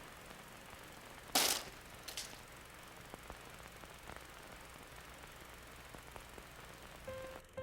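Faint steady background hiss broken by two short, loud rushing bursts of noise, about a second and a half and two seconds in. Soft sustained piano notes begin near the end.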